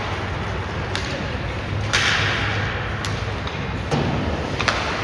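Youth ice hockey game sounds in an arena: sharp clacks and thuds of pucks and sticks, with a short scraping hiss about two seconds in, over background crowd chatter.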